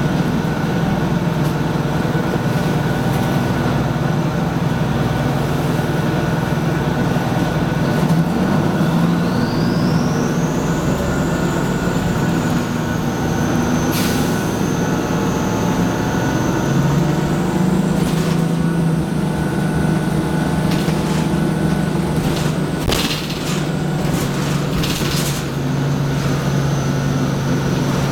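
Detroit Diesel 6V92TA two-stroke V6 diesel of a 1995 Nova Bus Classic running under way, with a high turbo whistle that rises in pitch about a third of the way in, holds for several seconds and comes back near the end. The turbo whistles loudly whenever it spins at higher revs. A few sharp knocks or rattles sound over the engine.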